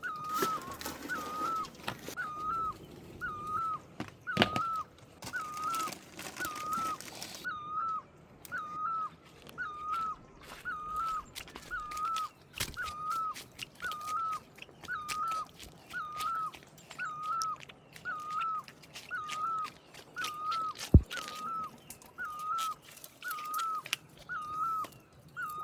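A bird calls the same short whistled note over and over, evenly, a little more often than once a second. Scattered sharp ticks are heard among the calls.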